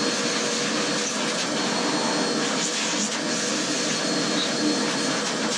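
Vacuum cleaner running steadily with a constant hum, sucking dirt out of a torn-down engine.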